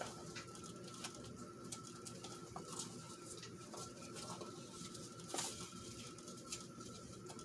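Rummaging through a desk drawer: small items and papers being shifted, giving scattered light clicks and rustles, with a louder knock about five and a half seconds in. A faint steady hum runs underneath.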